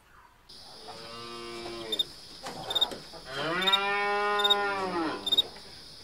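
A cow mooing twice: a shorter moo, then a longer one of about two seconds that falls in pitch at the end. Faint high chirping repeats steadily in the background.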